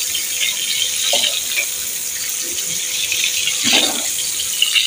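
Chopped onion and green bell pepper sizzling in hot oil in a karahi, a steady crackling hiss; the vegetables are fried and are being dished out. A wooden spatula scrapes through the pan about a second in and again near four seconds.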